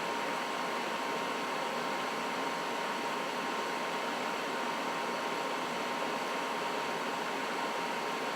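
Trane XB80 gas furnace running steadily: an even rush of moving air with a thin, steady whine above it.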